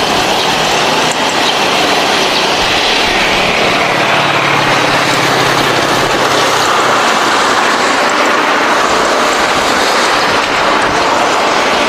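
Jet engines of a Singapore Airlines Airbus A350-900 (Rolls-Royce Trent XWB) running, a loud, steady rushing roar of jet thrust.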